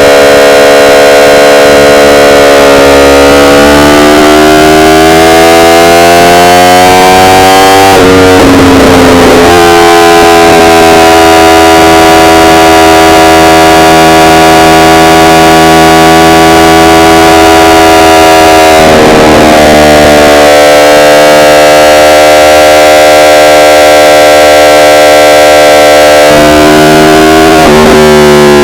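Yamaha R1 inline-four engine pulling under acceleration, its pitch climbing steadily, then dropping sharply at upshifts about eight seconds in, again around nineteen seconds and once more near the end. The recording is so loud that it distorts.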